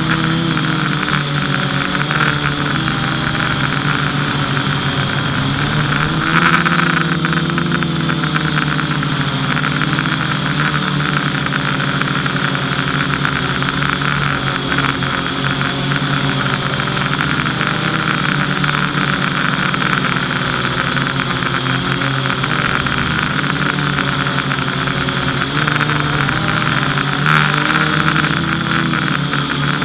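FPV quadcopter's motors and propellers buzzing in flight, the pitch rising and falling as the throttle changes, with louder pushes about six seconds in and near the end.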